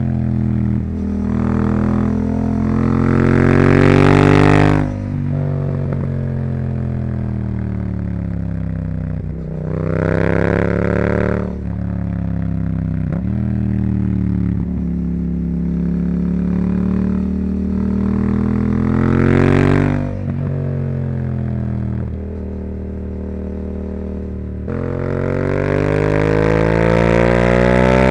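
Yamaha R7's 689 cc parallel-twin engine through a Yoshimura R-77 exhaust under riding load, its revs climbing in several hard pulls and falling back with sudden drops as the throttle closes or it shifts. The strongest pulls run from about a second in, at around ten and twenty seconds, and from about twenty-five seconds on.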